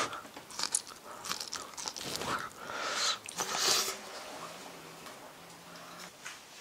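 Biting and chewing a deep-fried piece in flour batter mixed with egg, close to the microphone, with irregular crunches through the first few seconds and quieter chewing after. This egg batter is the soft, less crisp coating of the four tried.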